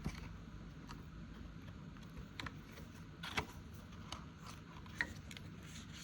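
Faint handling of paper cash envelopes: a few soft rustles and clicks, the most distinct about three and a half seconds in and again about five seconds in.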